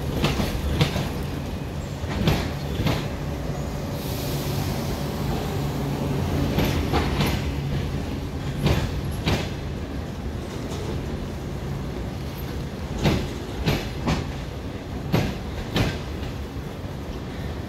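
A passenger train hauled by an EP1M electric locomotive creeping slowly into a station, its wheels clacking over rail joints in pairs about half a second apart, repeating every few seconds. A steady low hum runs under the clacks for the first half, and there is a short hiss about four seconds in.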